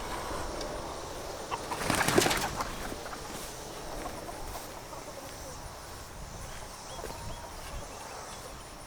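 Hens in a chicken tractor, with one brief flurry of wing-flapping about two seconds in, the loudest thing here; otherwise light rustling and small ticks.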